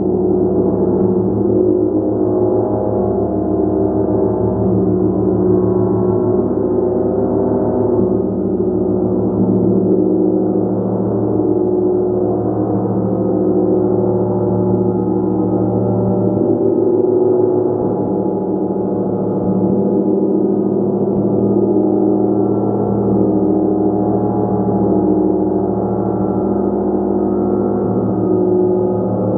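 A gong played continuously: a steady, dense wash of overlapping low and middle tones that ring on together, with no single strike standing out.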